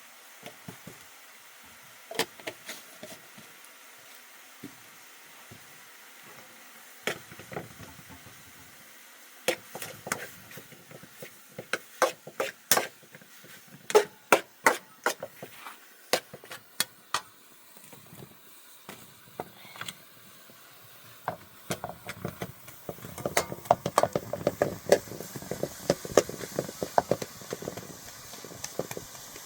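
Irregular sharp knocks and clatters, like wood or hard objects being struck or handled. They are sparse at first, come in a busier run in the middle, and turn into dense clattering near the end.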